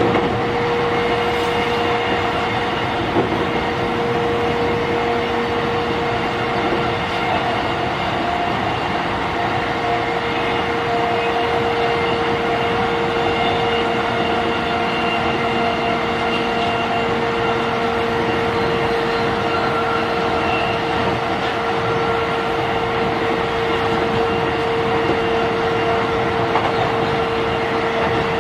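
Running sound heard from inside a JR East E531 series electric train at steady speed: rail and wheel rumble with a steady tone that neither rises nor falls.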